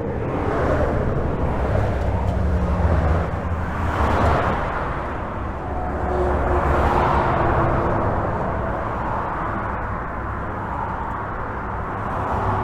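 Highway traffic heard from under a bridge: a continuous low rumble of tyres and engines, with vehicles passing overhead and nearby swelling and fading about every few seconds.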